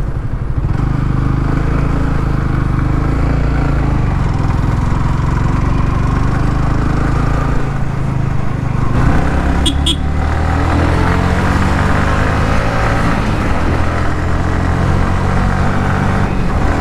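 Yamaha R15 V3's single-cylinder engine running under load as the motorcycle climbs a hairpin hill road, its note shifting about nine seconds in. A brief pair of clicks comes just after the shift.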